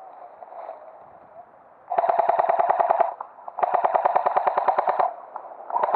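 Airsoft electric rifle firing two full-auto bursts, each about a second to a second and a half long, a short pause between them, with a fast, even rattle of shots and the gearbox buzzing. A third burst begins at the very end.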